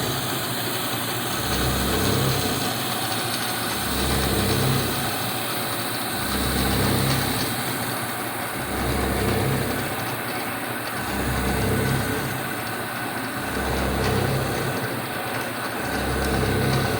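1980 Shizuoka AN-S CNC milling machine running while milling a slot in 1018 carbon steel. The spindle and cut make a steady machine noise with a low rumble that swells and eases every two to three seconds as the cutter works through its passes.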